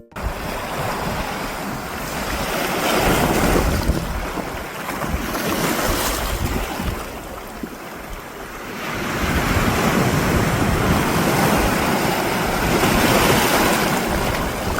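Sea waves surging onto the shore, swelling and ebbing in long washes, with wind buffeting the microphone.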